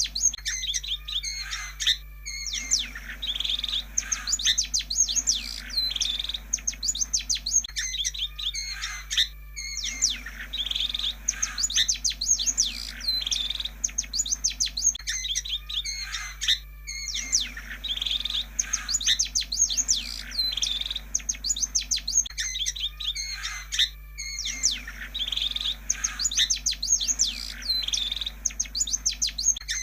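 Long-tailed shrike (pentet) song: a fast, chattering run of sharp chirps and varied notes, played as a lure to get a shrike singing. The same phrase repeats in a loop about every seven seconds with short pauses between, over a faint steady hum.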